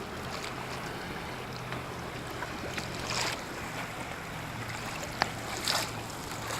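Kayak paddling on open lake water: two paddle splashes, about three seconds in and near the end, over a steady wash of water and wind, with a sharp tap just before the second splash.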